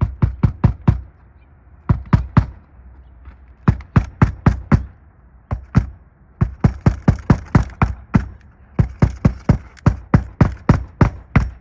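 Hammer driving a roofing nail into a replacement shingle: quick runs of sharp strikes, about five a second, broken by short pauses.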